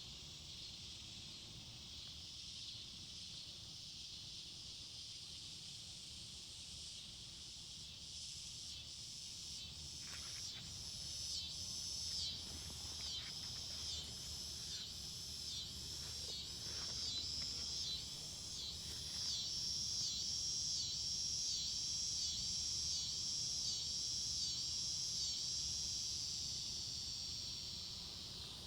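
Insects in the woods: a steady high buzzing, joined about a quarter of the way in by a pulsing insect chorus at a little over one beat a second. The chorus swells to its loudest in the last third and then fades.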